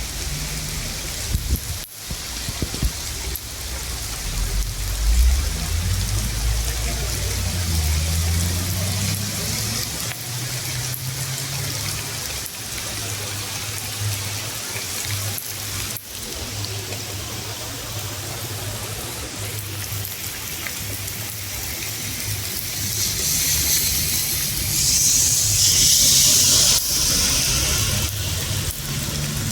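Rain falling steadily with a low rumble underneath, the hiss of the rain growing heavier from about three quarters of the way in before easing slightly. The sound briefly drops out twice.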